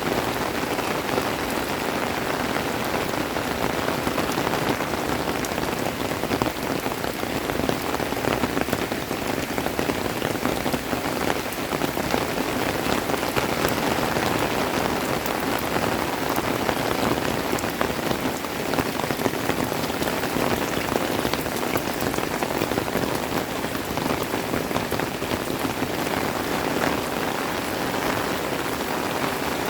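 Steady rain falling, with many individual drops heard striking close by throughout.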